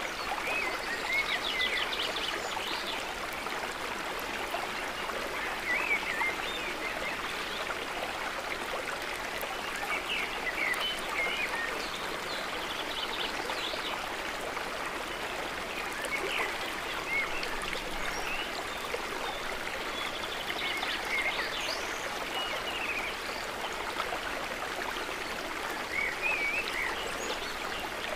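Water running steadily, with small trickling and gurgling sounds breaking through every few seconds.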